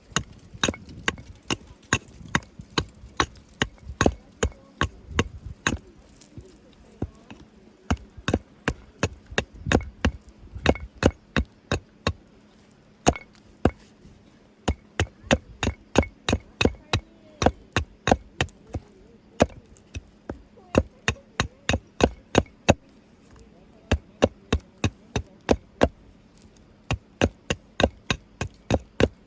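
Wood being struck over and over: sharp knocks about three a second, in runs broken by short pauses.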